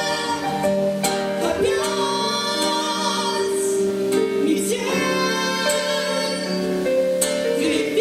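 Song performance: a female voice singing held notes over keyboard accompaniment.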